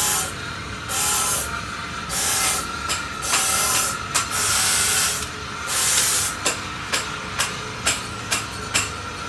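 Repeated short bursts of hissing, each under a second, during work on a motorcycle muffler's baffle. From about two-thirds of the way in, a series of sharp clicks or taps comes roughly twice a second.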